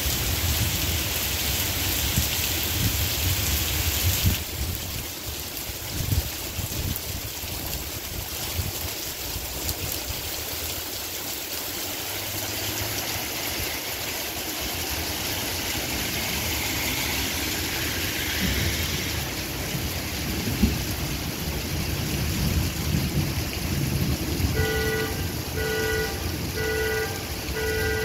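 Heavy rain pouring onto a wet city street, a steady hiss of water that is brightest in the first few seconds. Near the end a vehicle horn gives a quick, even run of short beeps.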